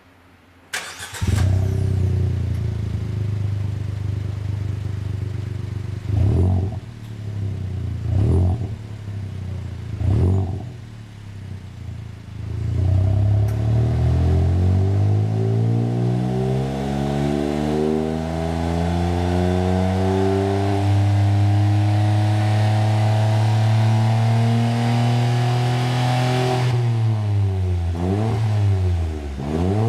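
Suzuki Jimny engine with a Sense Brand aftermarket rear-section muffler, starting about a second in and settling to idle. It is blipped three times, then revved slowly up and held high for several seconds, dropped back, and blipped quickly a few times near the end, showing off the muffler's deep exhaust note.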